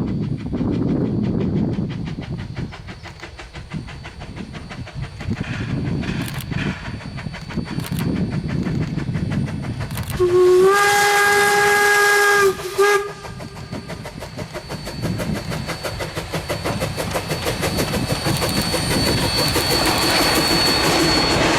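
Rogers-built K class steam locomotive K 88 running with a rapid, steady rhythmic beat. About ten seconds in its steam whistle gives one long blast, then a short toot. After that the running sound builds louder toward the end.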